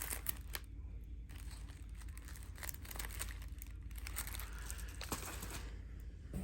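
Firecracker packs being handled, their wrappers crinkling and rustling in scattered light clicks with short pauses.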